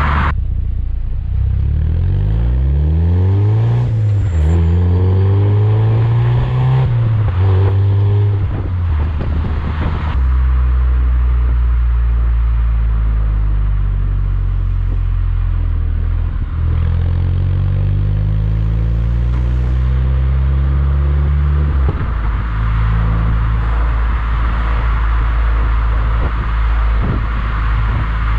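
Mazda MX-5 NC's 1.8-litre four-cylinder engine through an IL Motorsport aftermarket exhaust, the revs rising and falling several times, dropping sharply about ten seconds in and again near twenty-two seconds, and holding steady in between.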